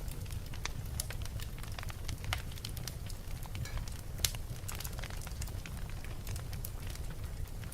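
Fireplace fire crackling: irregular snaps and pops over a steady low rumble of the flames, with one louder pop about halfway through.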